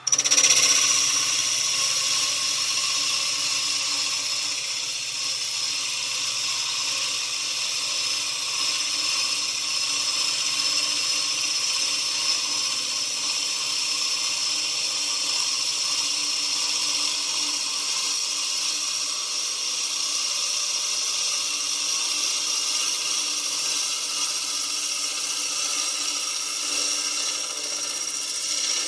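Lathe running with its cutter turning down the outside of a wooden snare drum shell: a steady, loud machining noise with a high whine, starting suddenly.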